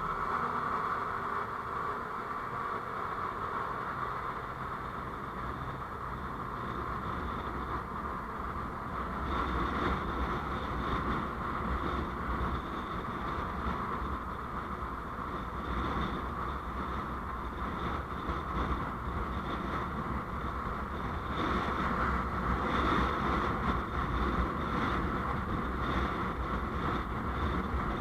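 Steady road and engine noise of a vehicle on the move, picked up by a dashcam microphone; the low rumble gets louder about nine seconds in and again a little past twenty seconds.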